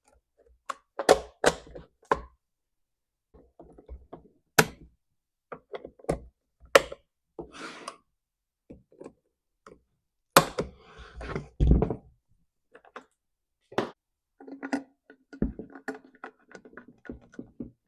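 Hands working on a chainsaw and tools at a workbench: scattered sharp knocks, taps and clicks of plastic and metal parts, with a longer stretch of rattling handling noise about ten seconds in.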